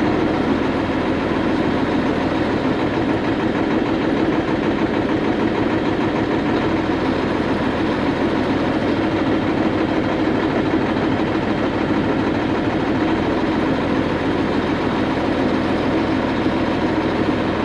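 Diesel engine of a 2000 Freightliner FLD 112 semi truck idling steadily during an injector cutout test. The idle stays the same as a cylinder is cut out, the sign that this cylinder is not firing.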